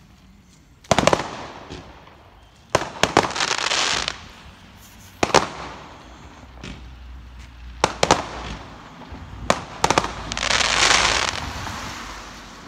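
Fireworks going off: a series of sharp bangs, several coming in quick clusters, some followed by a second or so of crackling hiss. The longest crackle comes near the end.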